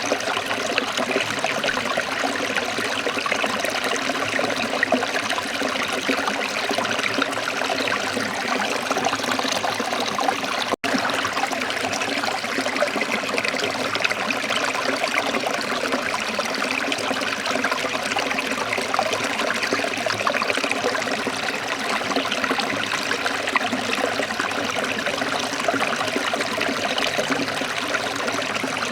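Waterfall with a steady, even rush of falling water. It cuts out for an instant about eleven seconds in, then carries on unchanged.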